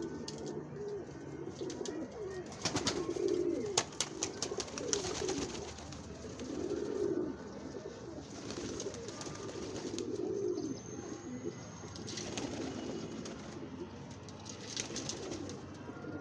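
Doves cooing over and over, the low coos overlapping from several birds. Runs of sharp clicks come about three seconds in and again near the end.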